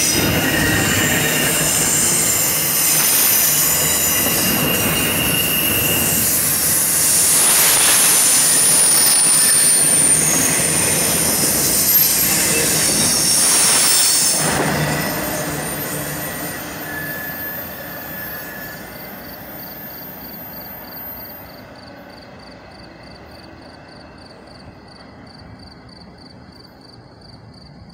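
CSX double-stack intermodal freight train's well cars rolling past, steel wheels squealing on the rails. The last car passes about halfway through, and the sound then fades steadily as the train pulls away.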